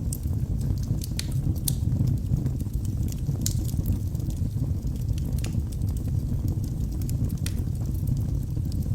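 Wood fire burning in a fireplace: a steady low rush of flames with scattered sharp crackles and pops from the logs.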